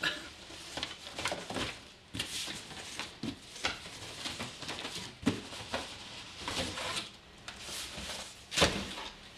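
Cardboard packaging being handled: irregular scraping, rustling and knocks of cardboard boxes as an inner box is worked out of an outer one, with one louder thump near the end.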